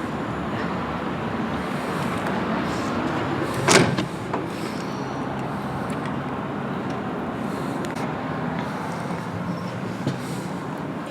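Running noise of the GoldenPass Belle Époque train heard from inside the carriage: a steady rumble and rattle, with one sharp clack about four seconds in and a few fainter clicks later.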